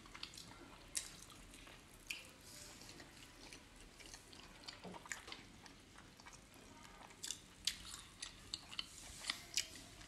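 Faint wet chewing and mouth clicks of people eating soft steamed momos, with sharper smacks coming more often from about seven seconds in.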